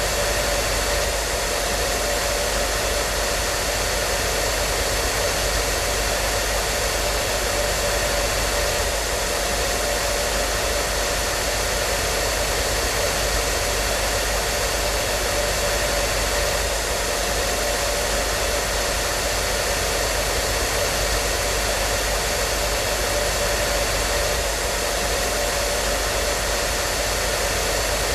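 Hair dryer running continuously: a steady rushing of blown air with a constant motor hum underneath and a faint high whine, unchanging in level and pitch.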